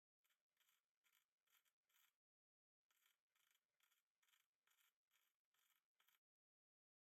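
Near silence: only very faint, evenly repeated scratchy rustles, broken twice by stretches of total silence.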